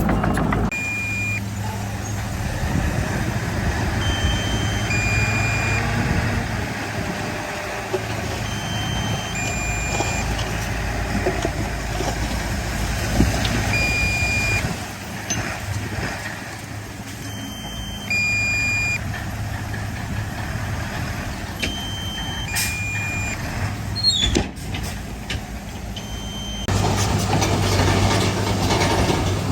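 Heavy diesel engines of earthmoving machinery running steadily, with a short electronic reversing beep repeating about every four to five seconds. The engine grows louder near the end.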